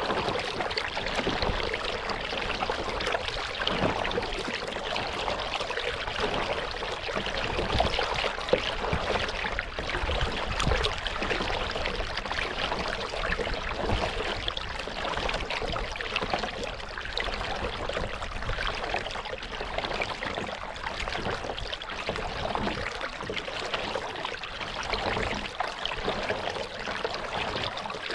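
Lake water splashing and trickling around a kayak being paddled: a continuous busy patter of small splashes and drips.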